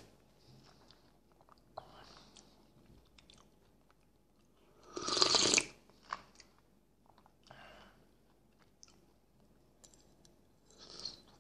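A person chewing and eating chicken and potatoes in broth close to the microphone, with faint clicks. One louder noisy burst comes about five seconds in and a smaller one near the end.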